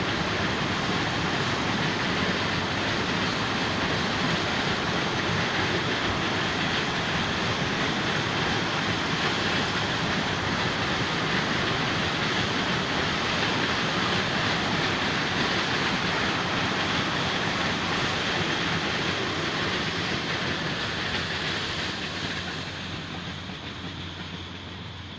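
Sugar cane train's long string of cane wagons rolling past on the rails, a steady loud rolling noise that fades over the last few seconds as the end of the train moves away.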